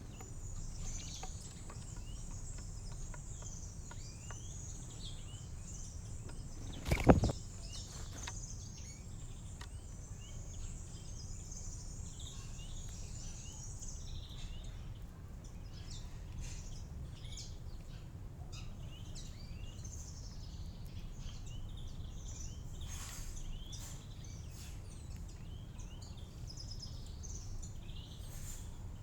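Small songbirds chirping and twittering, with a dense high twittering that fades out about halfway through, over a steady low rumble. One sudden loud knock about seven seconds in.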